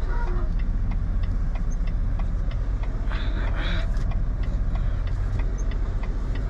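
Semi-truck diesel engine running at low speed while the truck backs up, heard as a steady low rumble from inside the cab. A light, regular ticking of about three a second runs over it, and there is a brief hiss about three seconds in.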